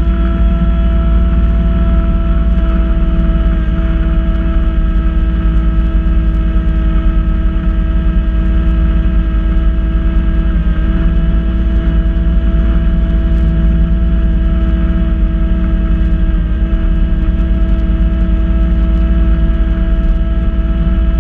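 Kubota B2650 compact tractor's three-cylinder diesel running steadily while driving a front-mount B2782 snow blower, a low drone with a steady whine over it.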